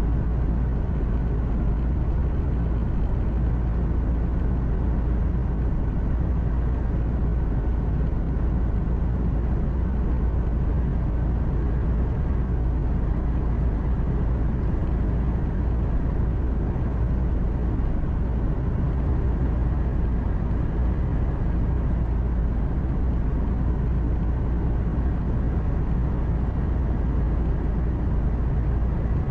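Steady low drone of a truck's engine and tyre noise heard from inside the cab while driving, even and unbroken throughout.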